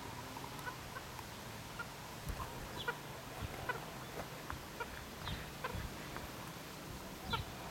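Chickens clucking: short calls come at irregular intervals, with a few low thumps among them.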